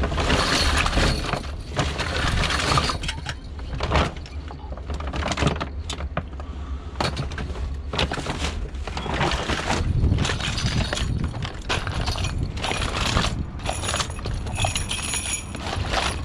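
Hard clattering and knocking of discarded toys and junk being rummaged through and tossed about, many irregular sharp clacks with a rattle.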